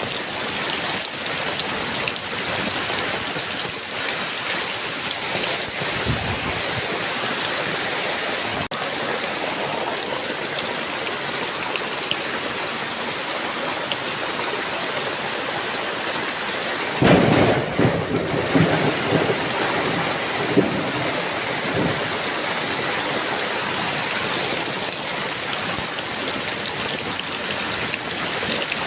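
Steady heavy rain with a thunderclap about two-thirds of the way through, rumbling for a few seconds before fading back into the rain.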